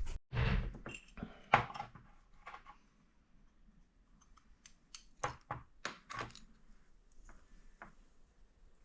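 Scattered clicks and knocks of metal tools and small parts being handled during engine work. The sharpest click comes about a second and a half in, and a run of quick clicks follows around the middle.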